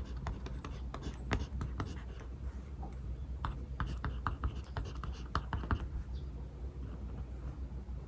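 Writing on paper: short scratching strokes, busiest in the middle, over a steady low hum.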